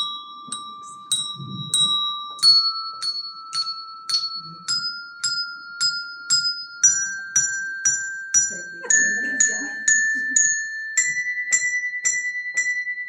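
Handbells rung by a group in turn, each note struck several times in a steady beat of about two strokes a second. The pitch steps up note by note, an ascending scale passed from bell to bell.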